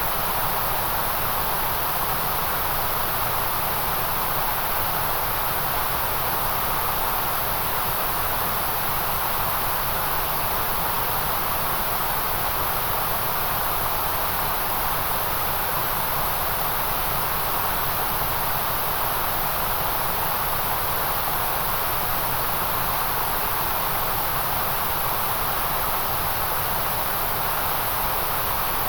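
Steady electronic white noise: an even hiss that holds the same level throughout, with no rhythm or events.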